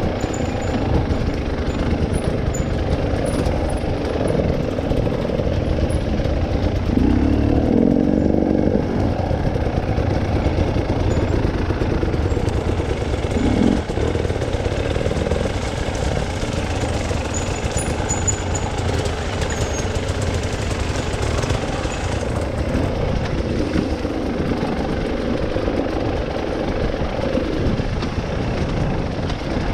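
A motor vehicle's engine running continuously under a heavy low rumble, with brief changes in pitch about a quarter and about halfway through.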